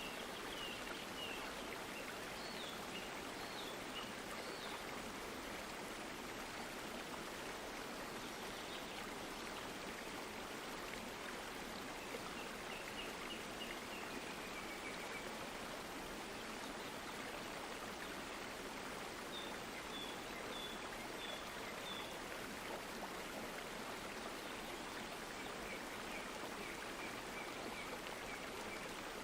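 Stream water flowing steadily. Several short runs of quick, repeated high chirps come through over it.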